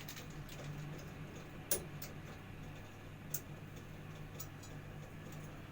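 A few scattered light clicks over a steady low hum.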